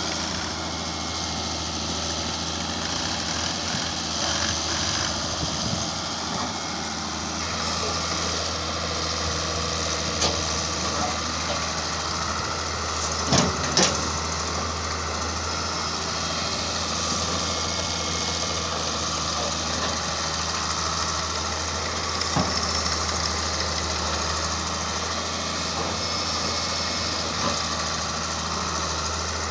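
Heavy machinery engine running steadily at a low idle-like pace, with a few sharp knocks or clanks now and then, two of them close together about halfway through.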